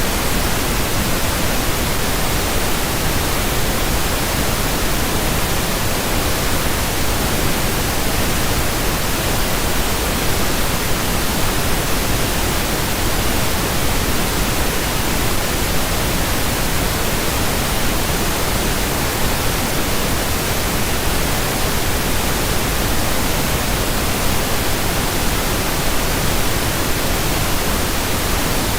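Steady pink noise: an even, unchanging hiss across all pitches, with no variation.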